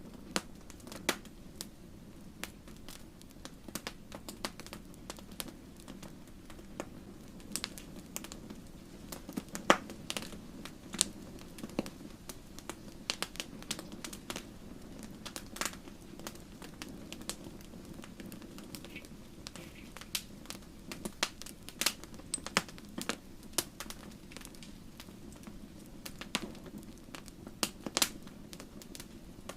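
Wood fire burning in a fireplace: a steady low rush of flame with irregular sharp crackles and pops, a loud pop about ten seconds in.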